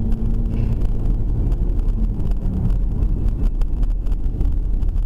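Steady low rumble of a car's engine and road noise heard from inside the moving vehicle, with faint clicks.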